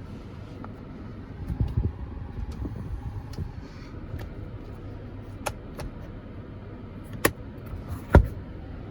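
Steady low hum in the cabin of a 2022 Toyota Highlander with its 3.5 L V6 idling, broken by a few soft knocks early on and then three sharp clicks of interior switches and trim being handled, the last and loudest with a knock, near the end.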